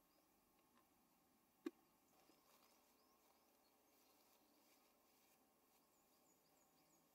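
Near silence with faint, high bird chirps now and then, and a single sharp click about a second and a half in.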